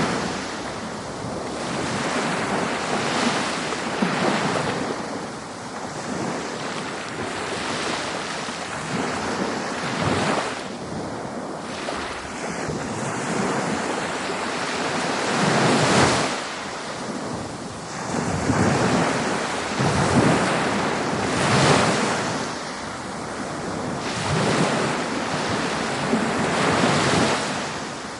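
Ocean waves breaking and washing up a beach, the surf swelling and falling back every few seconds, with a louder break about two-thirds of the way through.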